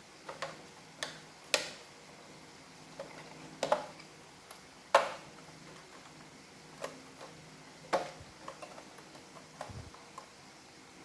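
Irregular sharp clicks and taps of plastic parts being handled and fitted during reassembly of an iRobot Roomba robot vacuum, with a few louder knocks spread among softer ticks.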